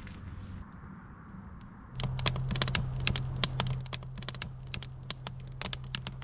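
Rapid, irregular sharp clicks and light taps over a steady low hum that starts about two seconds in.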